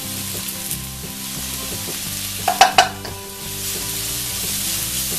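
Sliced onions, green chillies and curry leaves sizzling as they are sautéed in a wok, stirred with a wooden spatula. There are a few louder knocks about two and a half seconds in.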